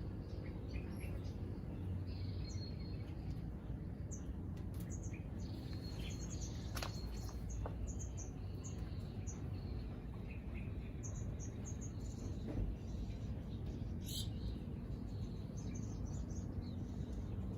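Small birds chirping in short high notes, often in quick runs of several, over a steady low background rumble.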